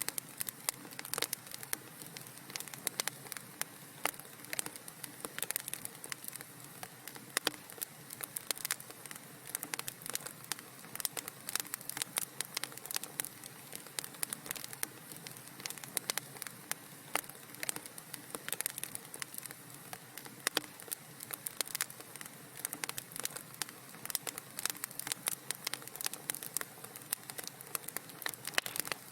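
Wood fire crackling in a fireplace: a steady hiss with many irregular small pops and snaps.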